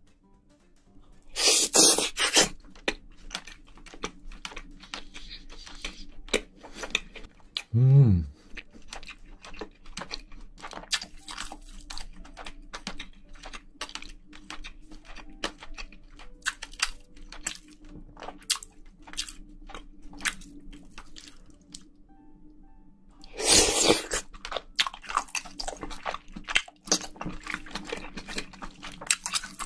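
Close-miked chewing of spicy braised seafood with bean sprouts: a dense run of sharp crunches and wet clicks in the mouth. Two louder noisy bursts come about two seconds in and again near the end, and a brief low hum falls in pitch about eight seconds in.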